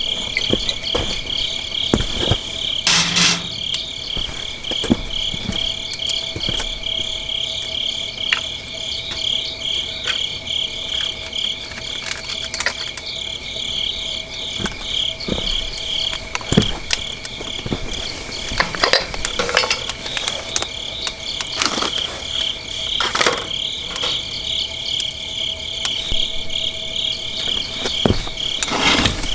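Crickets chirping in a steady, pulsing trill, with scattered sharp pops and crackles from a wood fire.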